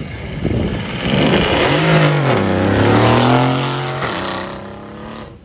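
Mercedes-AMG C63 S launching hard off the start line. The engine revs climb, drop at an upshift about two seconds in, then pull on and fade as the car drives away.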